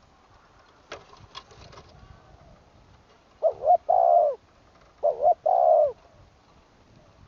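Spotted dove cooing twice. Each phrase is a quick double note followed by a longer, falling coo. A few faint clicks come about a second in.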